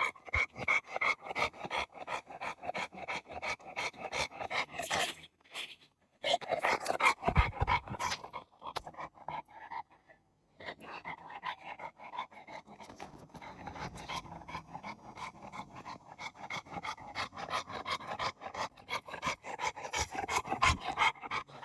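A dog panting rapidly and rhythmically, out of breath from running after a ball, with two short pauses about five and nine seconds in.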